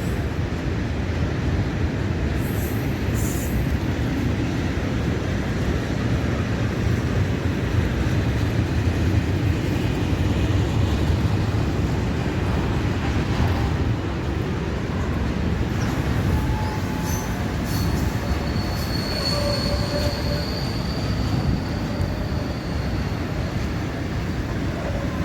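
Freight train hauled by an ET22 electric locomotive rolling through the station: a steady rumble of wagon wheels on the rails, with a short, high wheel squeal near the end.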